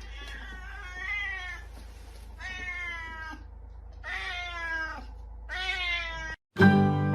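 Kitten meowing four times, each call drawn out and sliding down in pitch at its end.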